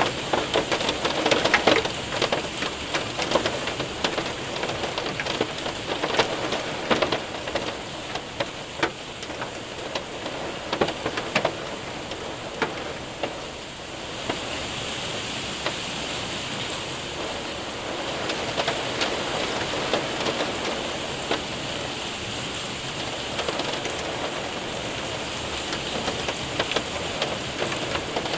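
Hail and rain hitting a window and roof: sharp ticks of hailstones over a steady rain hiss. The hard ticks are thickest in the first half, and about halfway through the sound settles into a smoother, hissier downpour with fewer strikes.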